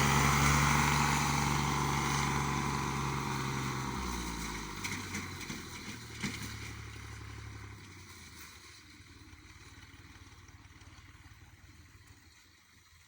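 Tractor's diesel engine running, growing steadily fainter until it is barely heard near the end, its low hum dropping in pitch about four seconds in and again near eight seconds. A few light knocks come midway.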